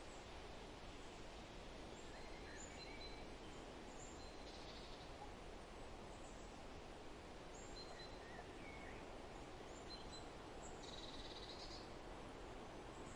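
Faint forest ambience: a steady, even hiss of background noise with scattered short, high bird calls and chirps from several birds, including two brief buzzy trills.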